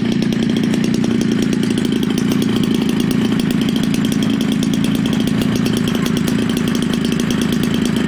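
Homelite 30cc two-stroke engine, a string-trimmer engine converted for a model airplane and fitted with a bigger Walbro carburetor, running steadily as it turns an 18x8 propeller.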